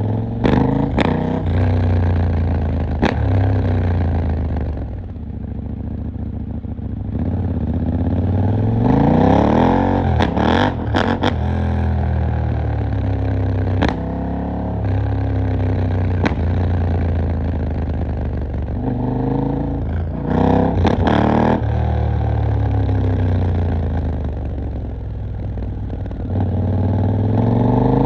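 KTM 890 Duke R's parallel-twin engine pulling through the gears in city riding: the pitch climbs, drops at each shift and climbs again, several times, between easier stretches. Several short sharp cracks stand out over the engine.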